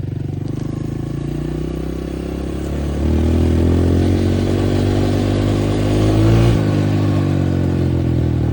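Honda CRF125F dirt bike's single-cylinder four-stroke engine running while ridden. About three seconds in the throttle opens and it gets louder, rising a little in pitch, then drops back about two thirds of the way through.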